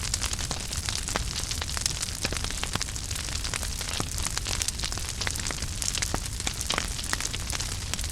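Wood fire crackling in a fireplace: many sharp pops and snaps, several a second, over a steady hiss and low rumble of the flames.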